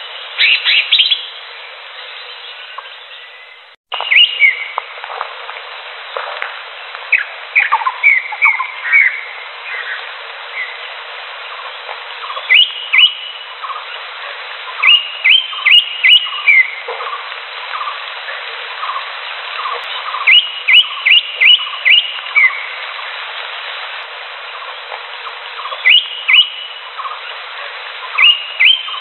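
Green leafbirds calling: sharp, rising whistled notes in quick runs of three to five, repeated every few seconds, with shorter lower chips between them, over a steady hiss. A brief cut about four seconds in.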